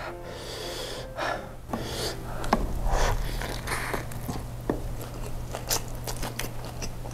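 Biting into and chewing a chicken kebab wrap: the flatbread tearing and wet mouth clicks, picked up close by a clip-on microphone.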